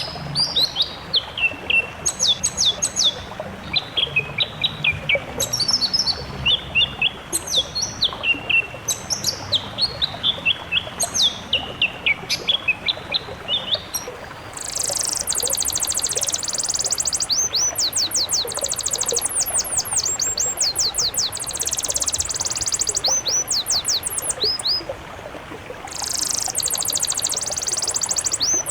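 Songbird song from a bird-song compilation for training cage birds. For the first half it is repeated phrases of short chirps that fall in pitch, about one phrase a second. About halfway through a different, much higher and denser song of rapid downward-swept notes takes over.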